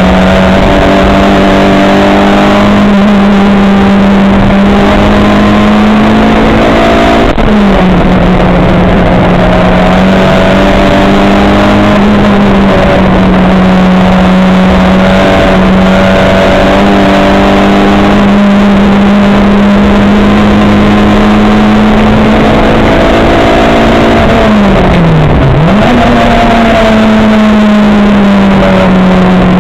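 Race car engine heard from on board, running at steady high revs. Its pitch drops sharply once about seven seconds in, and near the end it sinks deeply and climbs back up as the car slows and accelerates again.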